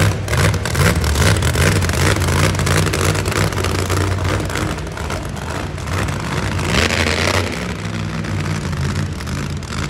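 Monster truck engine running hard and revving up and down, loud and continuous.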